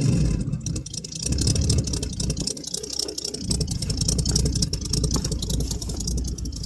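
1967 Chevy C10's 305 small-block V8 dropping back from a blip of throttle and idling through homemade glasspack mufflers and flex-pipe exhaust.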